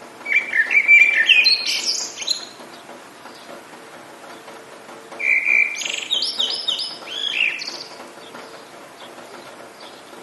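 A songbird singing two quick phrases of rising and falling whistled notes, one at the start and one about five seconds in, over a steady faint hiss.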